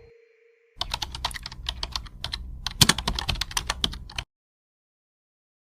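Computer keyboard typing: a quick, irregular run of key clicks lasting about three and a half seconds, starting a little under a second in and cutting off abruptly.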